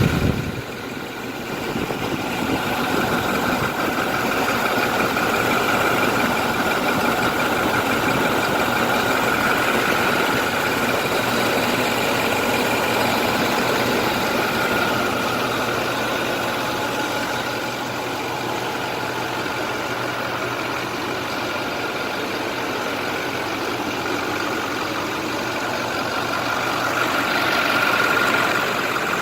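Diesel engine of a 2010 International DuraStar 4300 medium-duty truck idling steadily.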